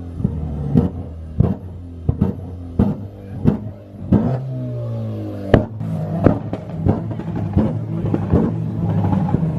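Modified tuner car's engine idling, then revved about four seconds in and held at a higher pitch, under background music with a steady beat.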